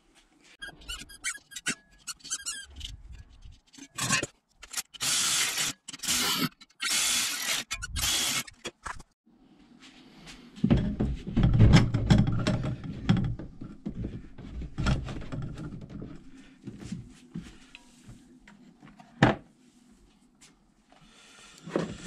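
Parts and tools being handled while fitting a heater: a run of short, loud scraping bursts about four seconds in, then heavier knocking and rubbing from about ten seconds, and one sharp knock near the end.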